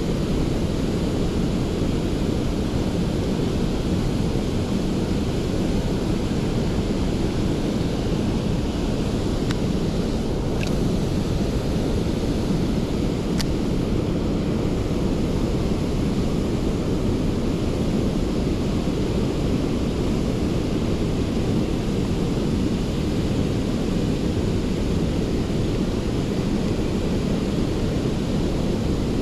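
Steady low rumbling noise, like wind buffeting the microphone, with two faint ticks near the middle.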